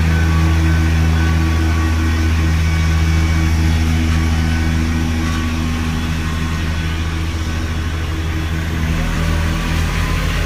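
A motor-driven machine running steadily with a loud, low humming drone, like an idling engine; its lowest tone shifts slightly about nine seconds in.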